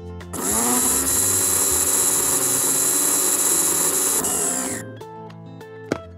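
Miniature blender motor running for about four and a half seconds: it spins up with a rising whine just after the start, runs steadily and loud, then winds down and stops near the end. Background music plays underneath.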